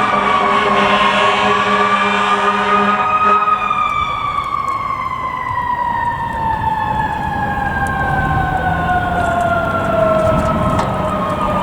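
Fire truck siren wailing, then winding steadily down in pitch from about three and a half seconds in, with the truck's engine hum underneath until then.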